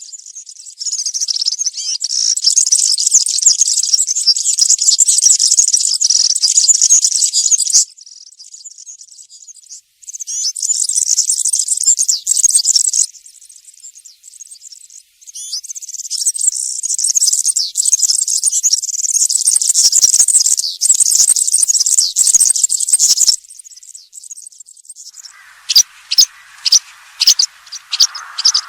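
European serin singing: long bouts of very fast, high-pitched jingling song, broken by pauses of two or three seconds. Near the end the song gives way to short, sharp separate notes over a faint lower hiss.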